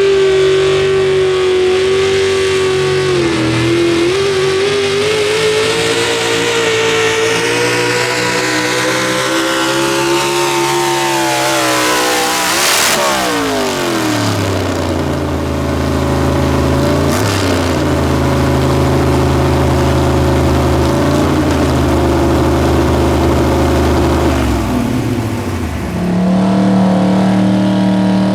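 Competition pulling vehicle's engine running at high revs under full throttle, then falling steeply in pitch about halfway through as the revs come down, with a sharp crack as they drop, and settling to a lower, steadier run. Near the end the sound changes and an engine pitch rises again.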